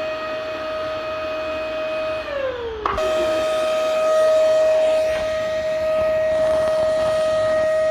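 Vacuum cleaner motor running with a steady high whine over a rush of air. About two seconds in, the pitch falls as the motor starts to wind down, then it cuts abruptly back to full speed and holds steady.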